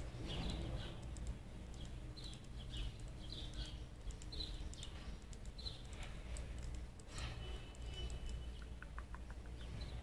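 Small birds chirping in short scattered calls, with light taps and clicks from fingers handling a small object close to the microphone, over a steady low hum.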